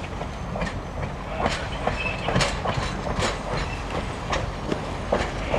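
Train rolling slowly past on jointed track: a steady rumble with irregular clicks and clunks from the wheels, about two a second. A brief thin wheel squeal comes about two seconds in.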